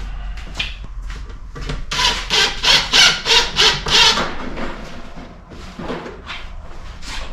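Hand saw cutting a wooden board with quick back-and-forth strokes, about four a second, loudest in a run of strokes about two to four seconds in and fainter around it.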